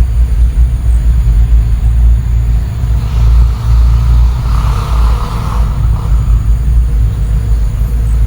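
Wind buffeting the microphone: a loud, fluttering low rumble, with a swell of hiss in the middle that fades again.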